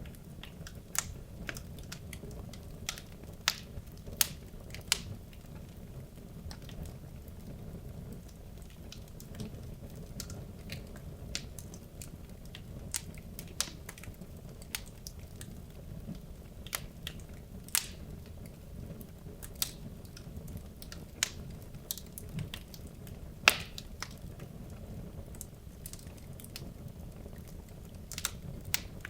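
Wood logs burning in a fireplace: irregular sharp crackles and pops over a steady low rumble of the flames, with one louder pop near the end.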